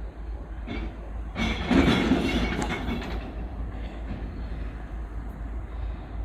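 Glass-recycling truck running, with a loud clattering burst lasting about two seconds, starting just over a second in, over the steady rumble of its engine.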